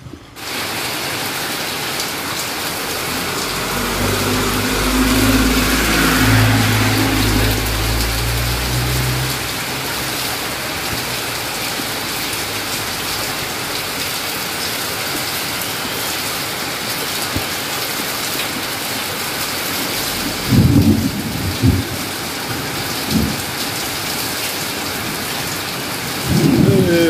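Steady hiss of rain falling on a wet street. A low vehicle engine hum comes in and fades between about four and nine seconds in, and there are a few low thumps later on.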